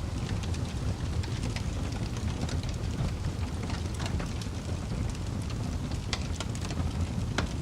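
Wood fire burning: a steady low roar of flames with frequent sharp crackles and pops scattered irregularly throughout.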